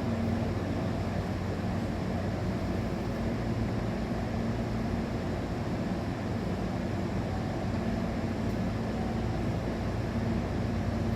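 Steady low hum and rumble of a Hankyu 1000 series electric train standing at the platform, with a few level tones and no change in pitch.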